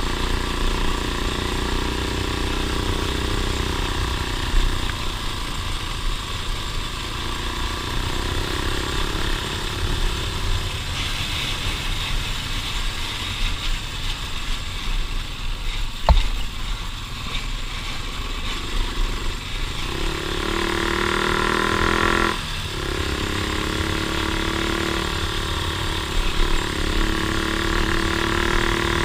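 Off-road vehicle engine running on a trail under changing throttle. It revs up about two-thirds of the way through, drops briefly, then picks up again. One sharp knock sounds near the middle.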